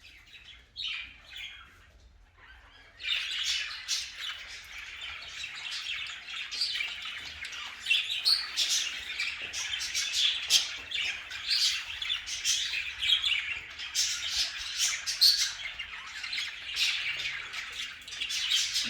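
Budgerigars chattering and warbling: a few separate chirps at first, then from about three seconds in a flock's dense, continuous chatter full of short sharp calls.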